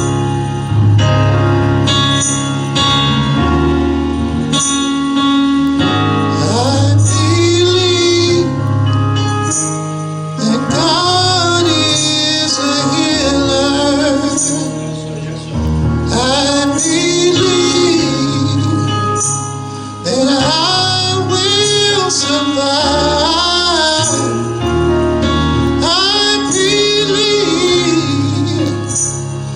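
Gospel song: sustained instrumental chords over a bass line, with a singer's voice with vibrato coming in about seven seconds in.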